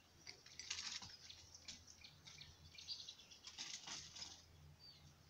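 Near silence, with faint bird chirps and a few light clicks now and then.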